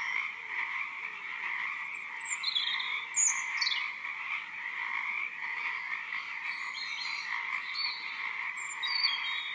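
A dense, steady chorus of many frogs calling together, with a few short, high, falling chirps over it.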